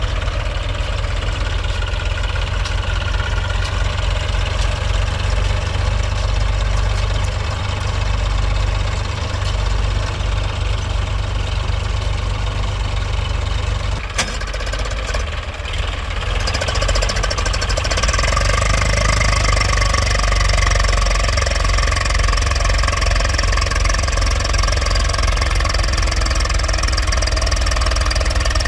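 Tractor diesel engine running steadily with a deep rumbling throb. There is a sharp click about fourteen seconds in, and from about sixteen seconds in the engine note takes on more high-pitched content, as if working harder or heard closer.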